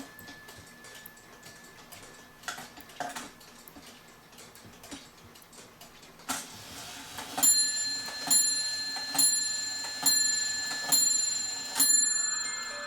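E. Schmeckenbecher Nuremberg church clock running: a few mechanical clicks, then the striking train releases with a click and the clock strikes six ringing blows on its bell, about a second apart. Right at the end its music movement starts playing a tune.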